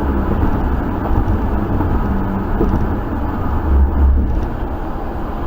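Steady low rumble of a moving car, engine and road noise, with most of the sound deep in the bass and a slight swell about four seconds in.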